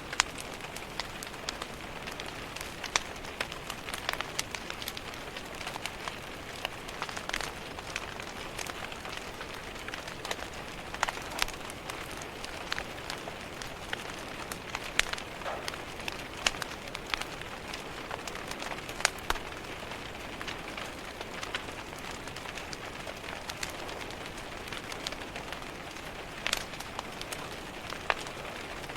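Rain falling on a window with a wood fire crackling in a fireplace: a steady hiss of rain with frequent sharp snaps and pops from the fire, a few of them louder.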